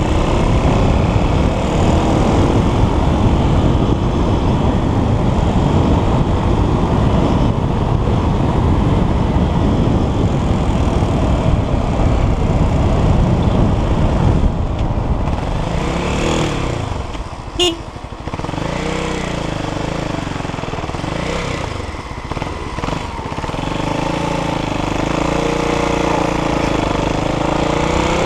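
Motocross motorcycle engine running and revving up and down as it is ridden. The engine eases off briefly about two thirds of the way through, with a short sharp click in the lull, then picks up again.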